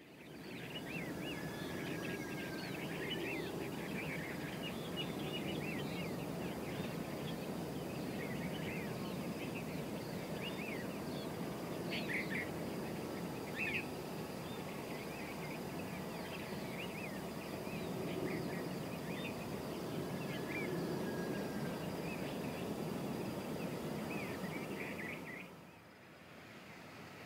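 Small birds chirping and trilling again and again over a steady low background noise, which drops off abruptly near the end.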